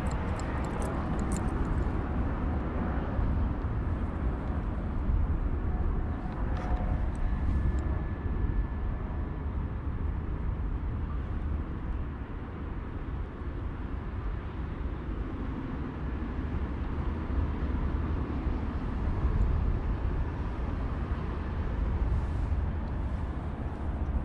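Steady low outdoor rumble with no clear single event, heaviest in the low end.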